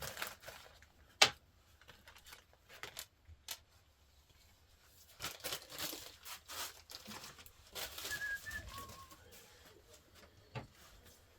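Valve-train parts and hand tools being handled on a bare cylinder head: a sharp metallic click about a second in, a few lighter clicks, and soft scraping and rustling, with a few faint high chirps near the end.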